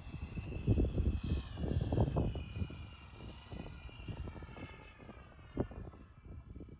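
Wind buffeting the microphone in gusts, over the thin whine of a radio-controlled model airplane's motor and propeller; the whine fades out near the end.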